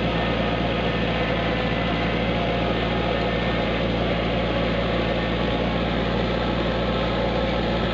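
Kubota tractor engine running steadily at a constant speed, with its mower engaged.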